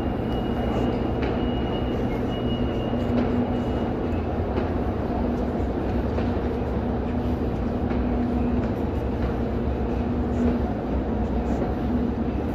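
Steady hum and low rumble of an SRT high-speed train standing at the platform, with a faint high steady tone for the first few seconds. Light footsteps of passengers shuffling forward to board.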